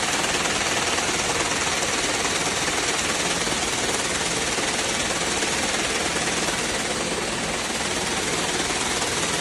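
Kevlar rope-making machinery running in a factory, a loud, steady, dense mechanical clatter that goes on without a break.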